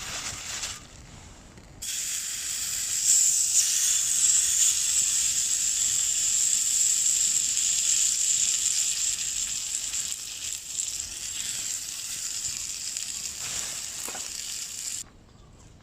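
Food sizzling in a small frying pan over an alcohol stove: a loud, steady, high frying hiss that starts suddenly about two seconds in and cuts off suddenly near the end.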